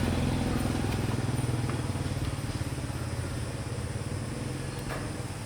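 A small vehicle engine running with an even, rapid beat, growing steadily fainter.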